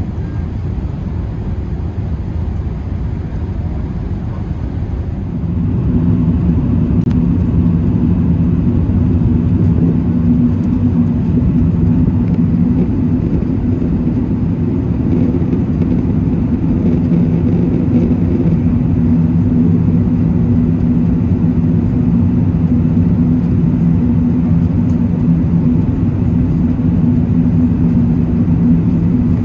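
Airbus A380 engine and airflow noise heard inside the cabin: a steady rumble that gets louder about five seconds in, with a steady low hum on top.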